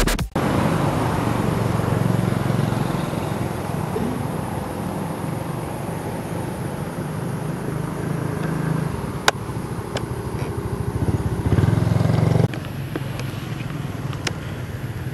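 Outdoor background noise: a steady low rumble with a few sharp clicks. About twelve seconds in, the background drops abruptly to a quieter level.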